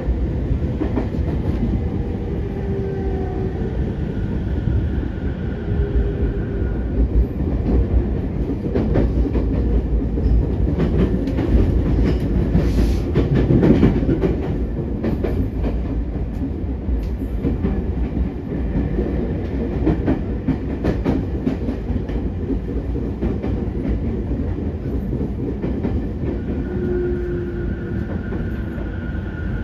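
Interior running sound of a JR East E231-3000 series electric train: a steady rumble of wheels on rail, broken by frequent clicks over the rail joints. Faint steady tones come in near the start and again near the end.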